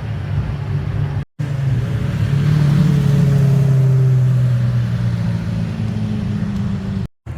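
A car engine rumbling as the car rolls slowly past, swelling to its loudest partway through and then easing off with a slight drop in pitch. The sound cuts out completely for a split second twice.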